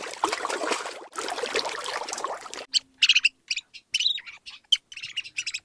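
Birds chirping: a dense chatter of many overlapping calls, then, after a sudden drop about two and a half seconds in, separate short high chirps with gaps between them.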